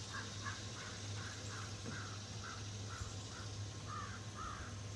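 A string of about ten short, harsh animal calls, roughly two a second, over a steady low hum.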